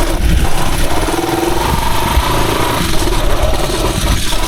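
Rusi Chariot 175 motorcycle engine running steadily, with a constant rush of wind or road noise over it.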